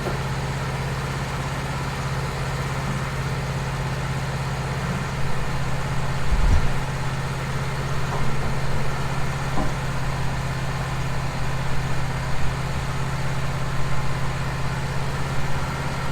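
Wood-Mizer LT15 portable sawmill's engine running steadily, growing slightly louder and more uneven partway through, with a low thump about six and a half seconds in.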